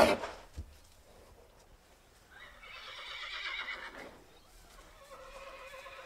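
Horse whinnying: a loud whinny trails off at the start, then two fainter whinnies follow, about two and a half and five seconds in.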